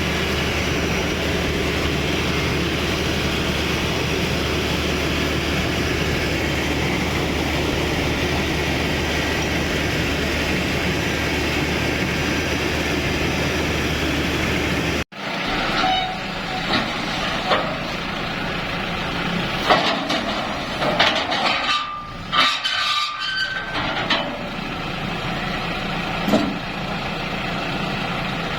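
Bimo Plus rice combine harvester running steadily with a dense, constant engine drone. After a sudden cut about halfway through, the machine sounds more uneven, with scattered clicks and a few short high tones.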